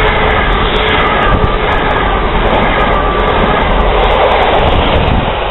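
CrossCountry High Speed Train passing close by at speed: a loud, steady rush of the coaches' wheels on the rails, with the diesel engine of the rear class 43 power car coming past near the end.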